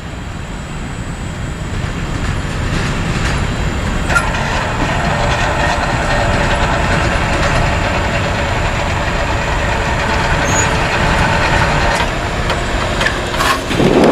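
Freight train rolling past, a steady rumble of wheels on the rails, with a band of higher steady tones joining about four seconds in and fading out near the end.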